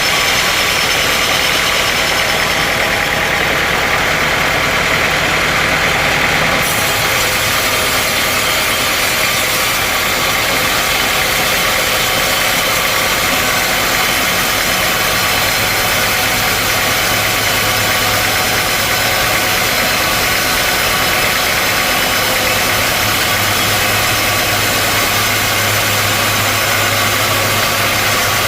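Sawmill machinery running steadily: a continuous, loud engine-like hum with no pauses, its tone shifting slightly about six seconds in.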